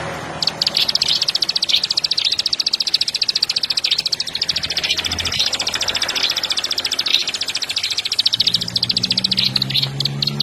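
Long-tailed shrike (cendet) singing a long, fast run of rapidly repeated high notes that starts about half a second in and carries on almost without a break. A low hum comes in near the end.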